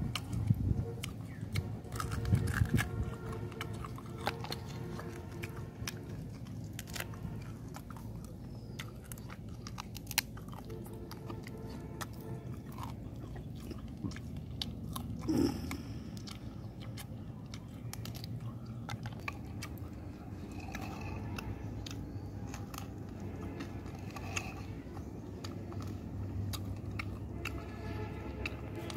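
A person chewing and biting into fried duck: close, wet chewing with many small crunches and mouth clicks, heaviest in the first few seconds and once more about halfway through.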